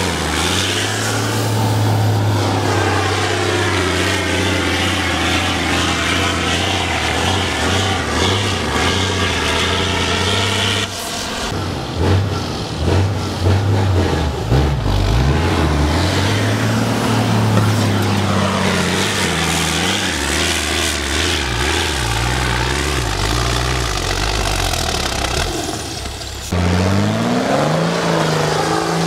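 Heavy four-wheel-drive trial truck's diesel engine working hard off-road, its revs rising and falling as it climbs and turns. The sound changes abruptly about eleven seconds in and again a few seconds before the end.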